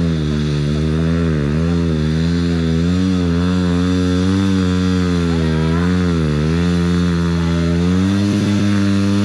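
Honda CRF150L's single-cylinder four-stroke engine running under a working throttle, its pitch dipping and rising about once a second, then holding steady for the last couple of seconds.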